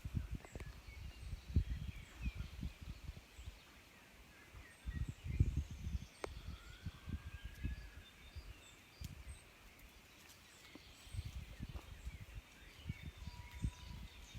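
Quiet outdoor ambience: faint scattered bird chirps and whistles over irregular low rumbling on the microphone.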